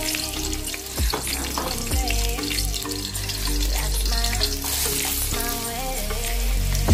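Sliced green chillies sizzling in hot oil in a metal pan. About halfway through, chopped red onion and garlic go in and the sizzle gets louder. Background music plays throughout.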